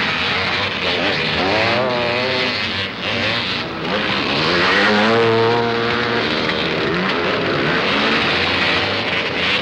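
Motorcycle engines revving, their pitch rising and falling several times over a steady engine noise.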